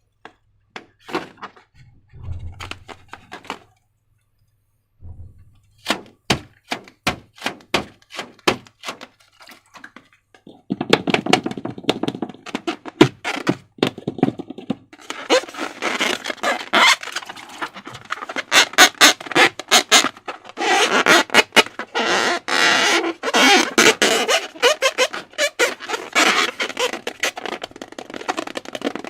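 Slime being squeezed and stretched by hand, giving sticky clicks and pops. At first the clicks come one by one, then from about eleven seconds in they run together into dense crackling.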